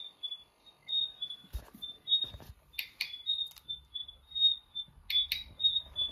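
A small bird chirping, a quick run of short high chirps about four a second, with a few louder sharp calls mixed in. Low thumps now and then, like handling of the phone.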